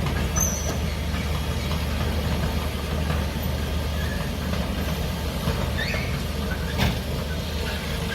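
A heavy excavator's diesel engine running steadily with a deep drone, and one sharp knock about seven seconds in.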